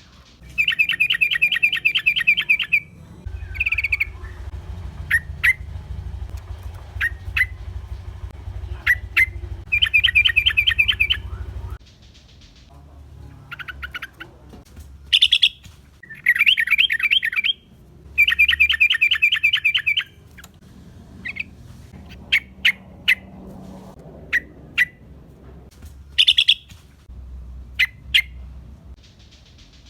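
Yellow-vented bulbul (trucukan) calling in a lively lure-call recording. Fast chattering bursts of a couple of seconds each come back several times, with single sharp notes between them.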